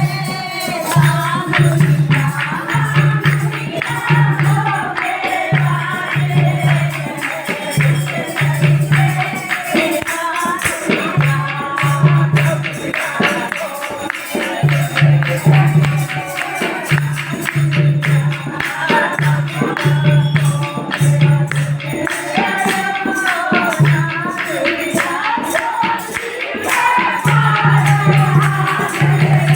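Languriya folk bhajan: sung vocals over fast, steady percussion, with a low note repeated in short blocks about once a second.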